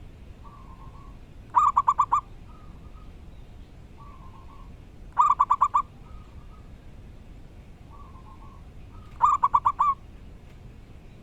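Zebra dove (perkutut) cooing: three loud phrases about four seconds apart, each a quick run of five or six notes, with fainter short coos between them.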